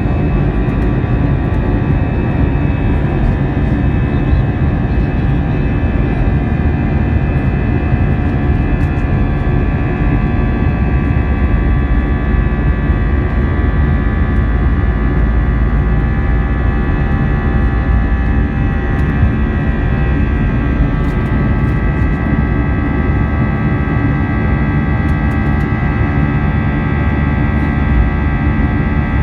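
Airbus A320's jet engines heard from inside the passenger cabin: a steady, loud rumble with several high whining tones held level.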